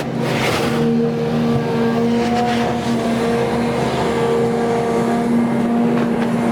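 XCMG XE310GA excavator's diesel engine running at a steady speed, with brief knocks or clanks from the machine's work about half a second in and again around two seconds in.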